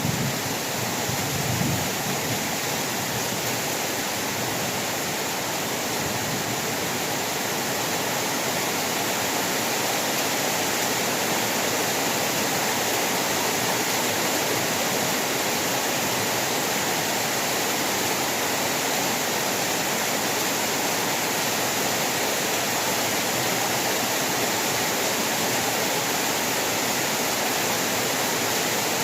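Heavy rain falling as a steady, even hiss. The low rumble of thunder dies away in the first couple of seconds.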